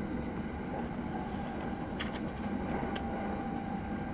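Steady low rumble of a moving train, heard inside the passenger car, with a faint steady whine. Two brief faint clicks come about two and three seconds in.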